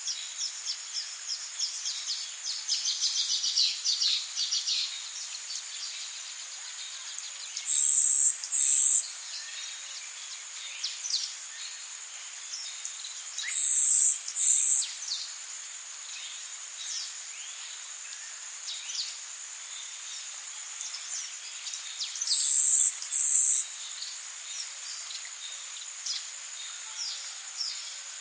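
Tropical rainforest ambience: a steady hiss of rain under a constant high insect hum, with a flurry of quick falling bird chirps over the first few seconds. A loud, high double buzz of an insect call sounds three times, about six to nine seconds apart.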